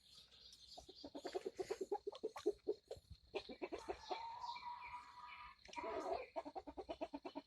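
Chickens clucking softly, a long run of short, quick notes with a brief drawn-out note partway through.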